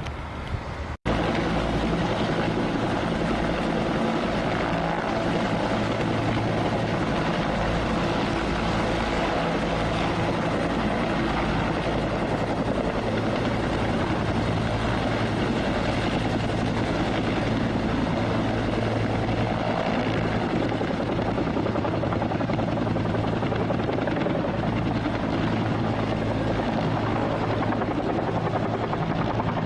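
Helicopter running steadily and loudly, its rotor chopping fast over a low engine drone. It starts abruptly after a momentary gap about a second in.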